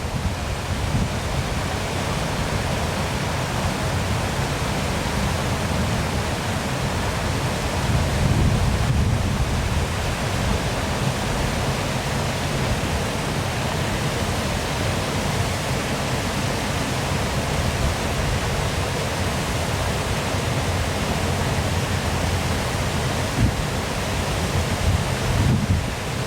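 Waterfall pouring steadily: an even rush of falling water with a strong low rumble beneath it.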